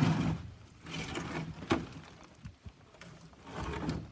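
Scrap metal pieces clanking and scraping as they are handled and set down, in several rattling bursts with one sharp knock about a second and a half in.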